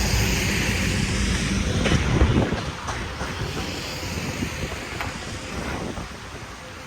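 Wind buffeting the microphone over passing street traffic, with a low rumble that is loudest for the first two and a half seconds and then eases off.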